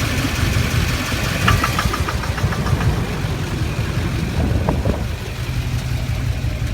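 2006 GMC Duramax 6.6 L V8 turbodiesel idling steadily on seven cylinders, one injector unplugged to cut out the faulty cylinder that was knocking and blowing black smoke.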